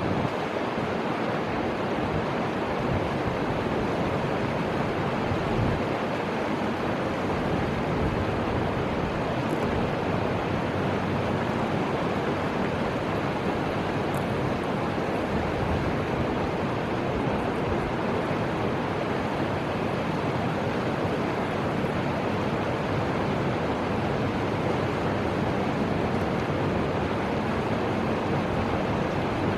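Steady rushing noise of the Fuji River's flowing water, mixed with wind on the microphone that adds a gusty low rumble.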